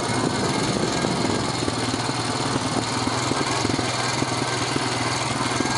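Four-wheeler (ATV) engine running steadily with a rapid, even firing pulse.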